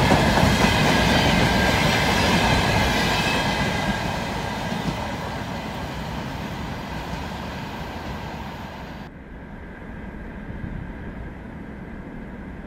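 Container freight wagons rolling past on the rails, the wheels clacking over the rail joints, the sound fading steadily as the end of the train goes by. About nine seconds in it changes abruptly to a quieter, duller rumble of the train.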